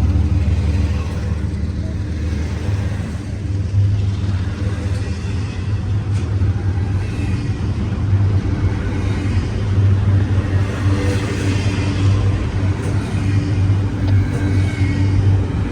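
CSX freight train rolling past: a steady low rumble with a deep humming drone.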